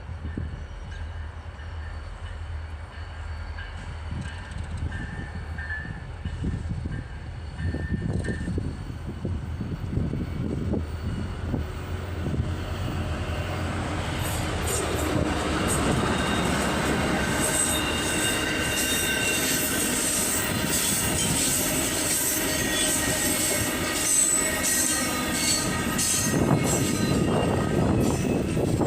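A train rumbling closer and passing on the nearby track. Its wheels squeal against the rails, growing louder through the second half.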